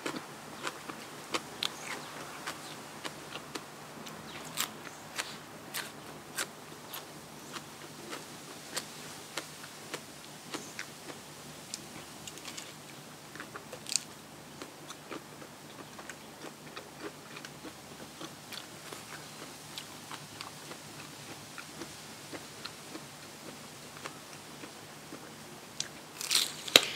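Close-miked eating: biting and chewing crunchy food from a meal of papaya salad with raw shrimp and raw vegetables. It comes as irregular crisp crunches and short mouth clicks, with a louder burst of crunching just before the end.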